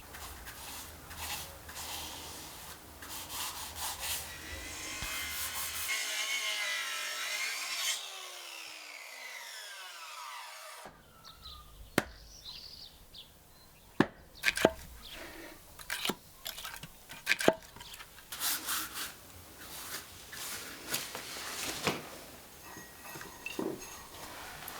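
Woodworking on a wooden door: a saw cutting through wood in rough strokes, then a run of sharp, separate knocks and taps on wood.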